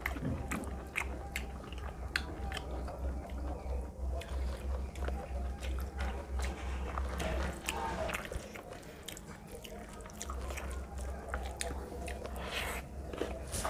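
Close-miked chewing of mouthfuls of rice and fish curry, with many small wet clicks, and fingers mixing rice and curry on a metal plate. A steady low hum runs underneath and drops out for a couple of seconds in the middle.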